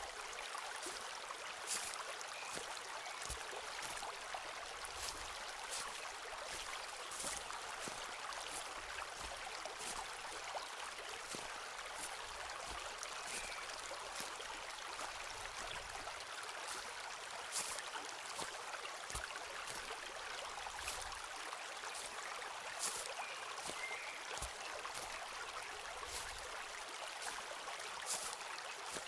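A stream flowing steadily, with scattered light clicks and crackles at irregular intervals.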